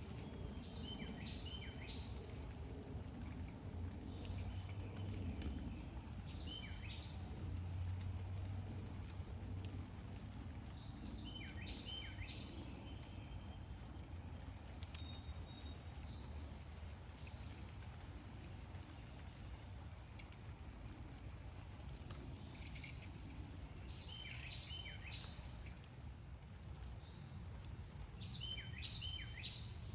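Small songbirds chirping in short bursts of quick high notes every several seconds, over a steady low rumble.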